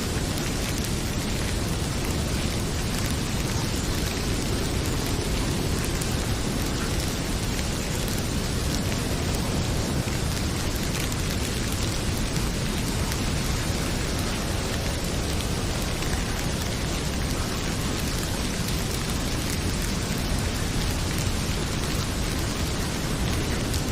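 Heavy rain pouring steadily, mixed with the crackle of a wood fire in a fireplace.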